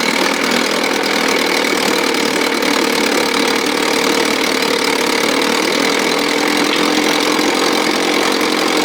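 1957 Sea King 5 hp two-stroke outboard motor running steadily at a constant speed.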